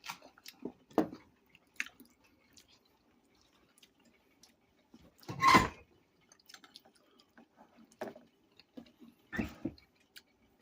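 Scattered soft clicks and small handling noises from dishes and food being moved about, with a louder, longer noise about halfway through and another near the end.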